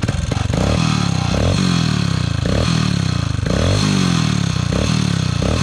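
Honda XR single-cylinder dirt bike engine revved in repeated throttle blips, rising and falling about once a second. The blips are made to track down a rattle that the riders suspect is the exhaust heat shield knocking or the cam timing; they settle on it being just the XR's normal vibration.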